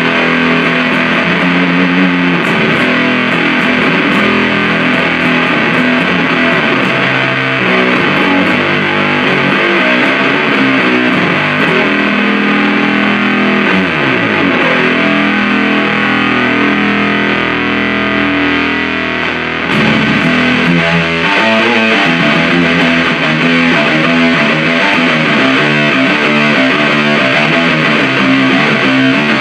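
Heavy fuzz-distorted riffs played through a Supercoolpedals 77 Fuzz Blender, a Big Muff-style fuzz pedal. About a third of the way in there is a downward slide, then a held, ringing chord, and the riffing picks up again around two-thirds of the way through.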